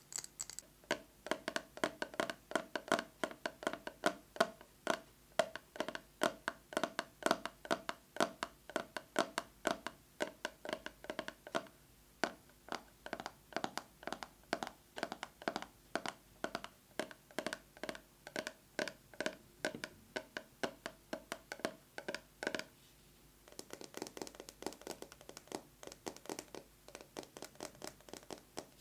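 Fast fingernail tapping on a plastic box with a metal cover, a ringing note sounding under the rapid taps. About 23 seconds in the tapping stops briefly, then goes on with a duller tone.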